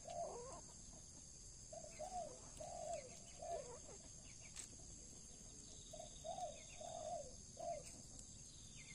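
A bird cooing in phrases of about four short, low notes, heard about two seconds in and again about six seconds in, over a steady high-pitched drone.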